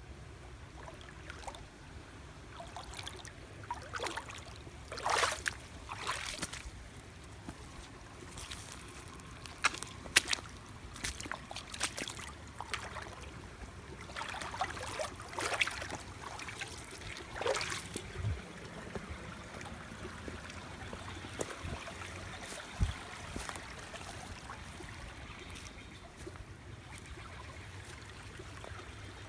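Small woodland stream trickling steadily, with repeated short rustles and clicks over it that come and go through the first two-thirds.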